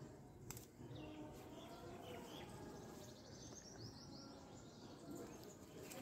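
Faint bird chirps over low background noise, with a quick run of short high calls about four seconds in and a single click about half a second in.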